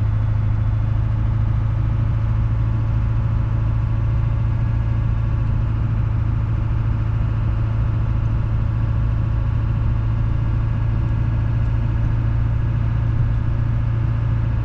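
Duramax diesel engine of a Chevrolet Silverado running steadily at an even pitch, with no revving.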